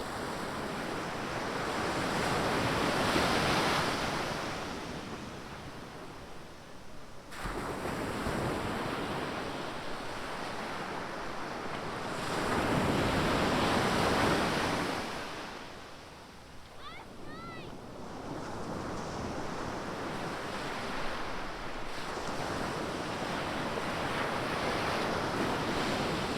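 Atlantic surf washing onto a beach in slow swells. Each wave builds to a rush of white noise and then eases off, about every ten seconds. A brief high chirping call comes about two-thirds of the way through.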